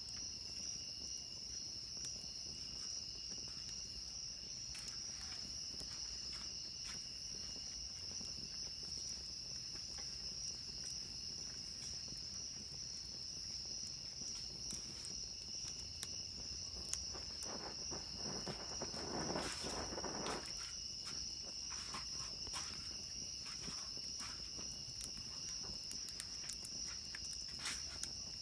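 Crickets keep up a steady high-pitched chorus while a campfire crackles with scattered sharp pops. A brief louder rushing sound comes about two-thirds of the way in.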